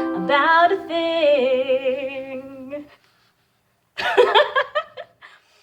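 Singing voice closing the song, gliding through a few last notes and holding the final one with vibrato before it fades out about three seconds in. After a short silence, a brief broken vocal sound, like a short laugh or breath, comes near the end.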